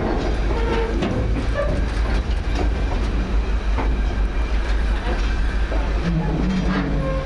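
Train moving slowly on jointed track. A steady low rumble runs under irregular clicks and knocks from the wheels and couplers, with a few brief squeaks.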